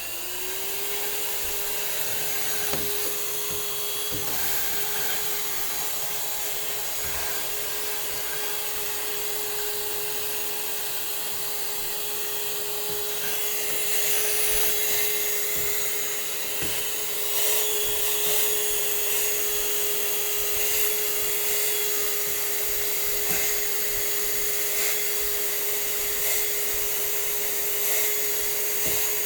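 Vacuum cleaner running steadily while dust is sucked out of a spinet piano, with a constant motor whine over rushing air. The whine rises and settles right at the start, and the air noise grows a little louder about halfway through.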